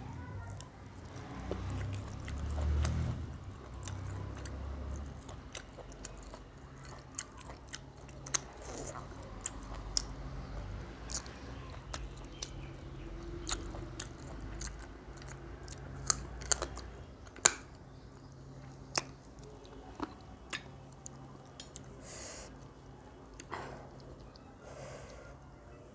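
Close-up chewing of rice and chicken curry by hand, with many sharp wet mouth clicks and smacks scattered through.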